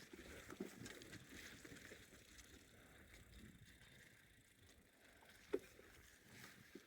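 Faint sound of a bicycle rolling along a forest track: tyres crackling and ticking over the ground, with one sharp knock about five and a half seconds in.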